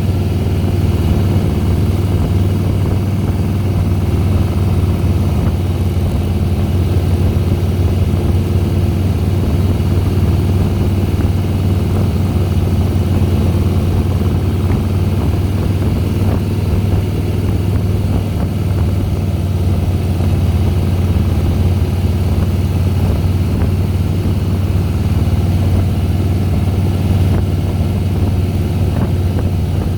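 2010 Harley-Davidson Softail Deluxe's air-cooled V-twin engine running under way at a steady, even pitch.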